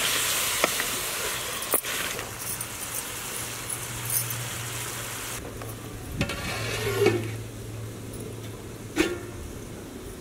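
Chicken in a wet green mint-and-coriander paste sizzling in a steel pot over a wood fire as it is stirred with a wooden spatula. The sizzle dies down about halfway through. A few sharp metal clanks of utensil and lid against the pot come at about two, six and nine seconds in.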